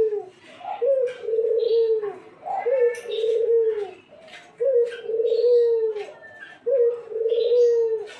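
Puter turtle dove cooing over and over, a low coo of a little over a second repeated about every two seconds, in full song.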